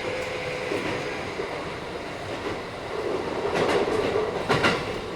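Running noise of a Keikyu 1000 series electric train with Mitsubishi IGBT inverter drive, heard on board at speed: a steady rumble with a faint held tone. Near the end the wheels clack twice over rail joints.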